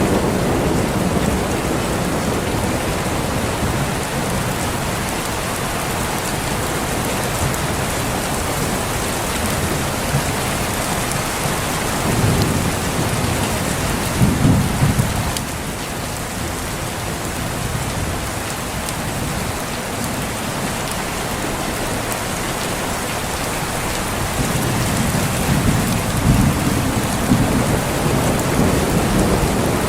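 Steady heavy rain with rolling thunder: low rumbles swell up twice, about halfway through and again near the end.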